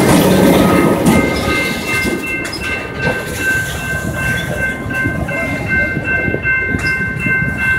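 Freight train passing close by. The diesel locomotive's heavy rumble drops away about a second in as it moves past, then the loaded hopper cars roll by with wheels clacking over the rail joints. Steady high-pitched tones ring over the noise.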